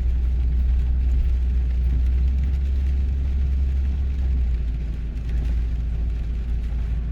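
Steady low car rumble heard from inside the cabin while driving: engine and tyre drone on the road. The low drone shifts slightly about four and a half seconds in.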